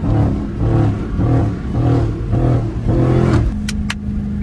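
Supercharged Dodge Challenger V8 engine and exhaust heard from inside the car, pulsing rhythmically, then settling into a steady drone about three and a half seconds in. Two short sharp clicks come near the end.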